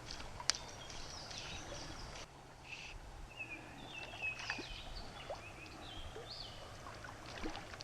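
Wild birds chirping and calling, with short gliding notes, over a steady low background hiss. There is one sharp click about half a second in.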